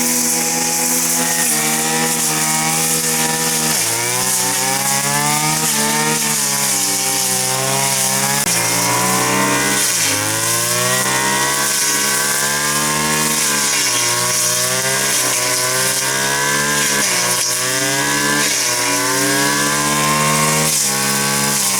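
Chainsaw running while cutting wood. Its engine pitch sags under load and climbs again, with marked dips about four and ten seconds in.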